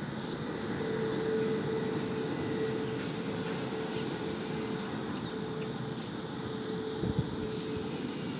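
Steady rumble of a moving vehicle, with a faint steady hum through most of it and brief soft hissing puffs now and then.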